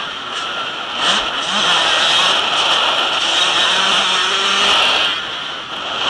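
Motocross motorcycles racing, engines revving with pitch rising and falling as the bikes pass.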